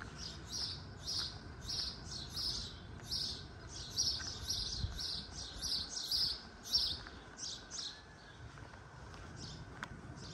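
A small bird chirping over and over, short high notes about three a second, falling silent about three quarters of the way through.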